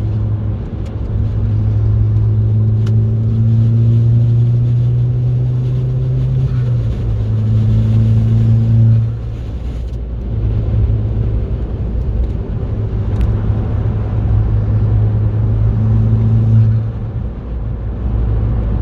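Remapped VW Golf Mk5 GTI's turbocharged 2.0-litre four-cylinder engine pulling hard at motorway speed, its note rising slowly over the first few seconds. It drops away briefly about halfway through and again near the end, then pulls on.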